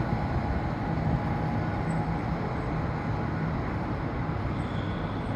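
MÁV V43 electric locomotive running light at shunting speed: a steady rumble with a low hum that fades after a few seconds.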